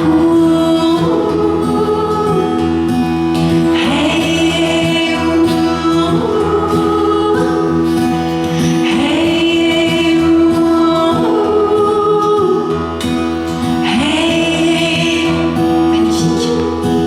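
Live band playing a song with a group of voices singing together, the audience singing along.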